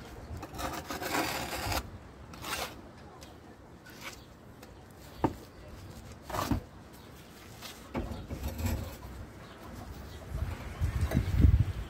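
Masonry work with a trowel and mortar: irregular scraping and rasping strokes, a few sharp knocks, and a low rumble near the end.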